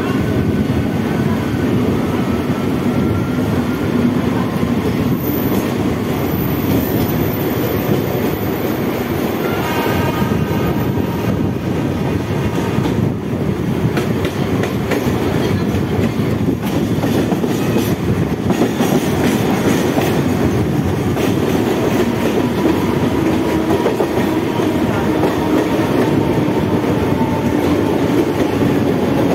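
A Mumbai Central Railway EMU local train running at speed, heard from on board at an open door: a steady rumble and clatter of wheels on rails.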